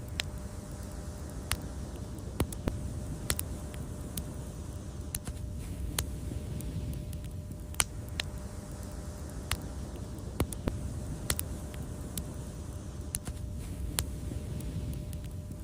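Wood fire crackling: a steady low rumble from the flames, with sharp, irregular pops and snaps about once a second.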